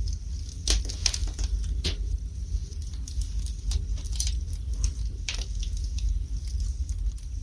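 Fire in a fireplace crackling, with irregular sharp pops a few times a second over a steady low rumble.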